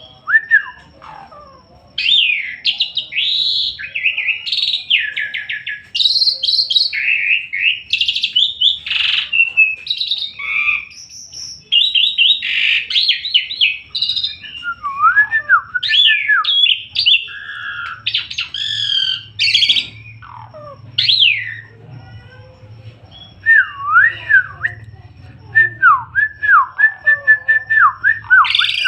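Asian pied starling (jalak suren) singing energetically: a long, varied song of rapid chattering phrases and whistles. In the last third it turns to repeated whistled slides that rise and fall in pitch.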